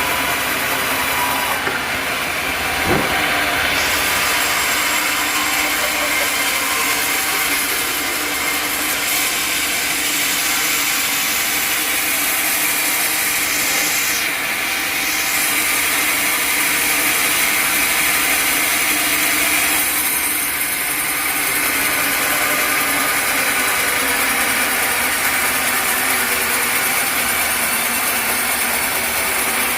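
Engine-driven sawmill running steadily, its saw cutting through acacia wood, with one brief knock about three seconds in.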